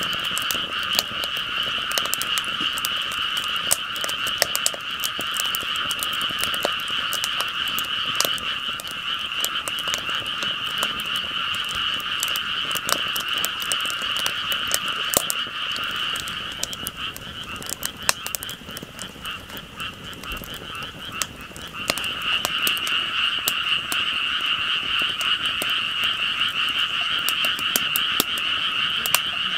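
A dense chorus of calling frogs, steady and continuous, easing off about seventeen seconds in and swelling again a few seconds later, with scattered sharp clicks throughout.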